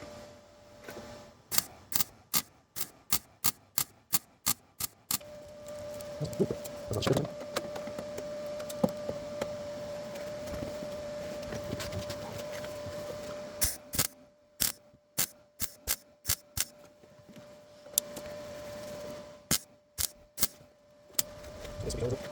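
MIG welder tacking and stitch-welding a steel patch panel onto a car's inner sill. A quick run of short welding bursts, about three a second, gives way to a longer stretch of steady crackling weld, then more groups of short bursts near the end.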